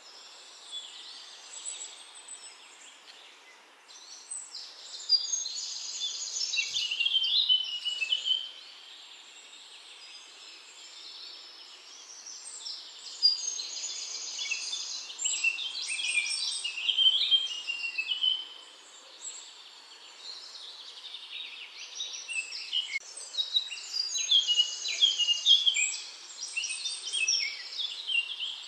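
A songbird singing in three long bouts of rapid, varied high-pitched notes, each a few seconds long, with a faint steady background hiss between them.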